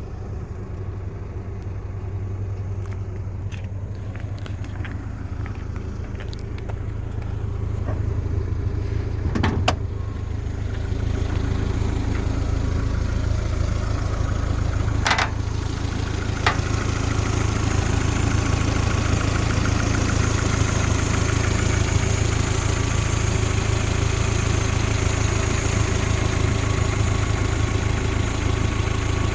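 Car engine idling steadily, growing louder about a third of the way in, with a few sharp clicks or knocks.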